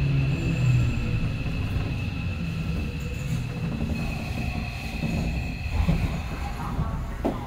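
Keio Line electric commuter train running, heard from inside the passenger car: a steady rumble of wheels on rail under a thin high whine. Lower motor tones glide down in pitch in the first second.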